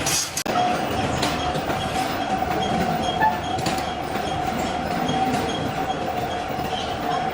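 Metal lathe running, a steady whine over a noisy mechanical rattle, with a brief break about half a second in.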